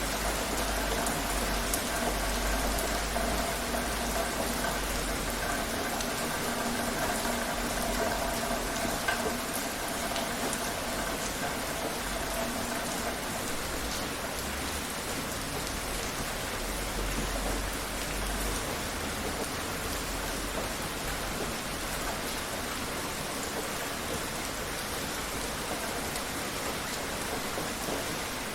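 Steady rain falling, an even dense patter with many close drops. A faint steady hum sits underneath through the first half and fades out, and a low rumble comes and goes.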